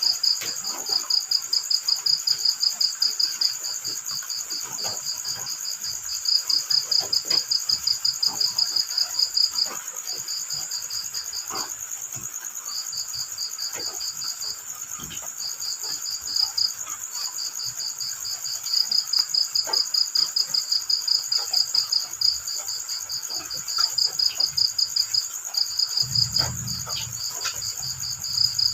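Crickets chirping: rapid, evenly pulsed trills in runs with brief pauses, over a steady high insect hum, with scattered faint drips of drizzle and a low rumble near the end.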